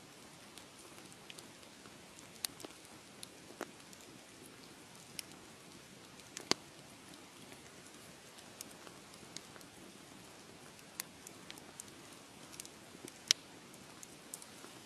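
Wood fire crackling: a steady soft hiss with irregular sharp pops and snaps, two of them louder than the rest, about halfway through and near the end.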